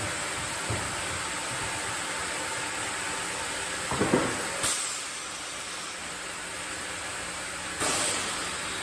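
Sawmill machinery running with a steady noisy hiss. Two sudden louder bursts come through, one about four seconds in and one near the end.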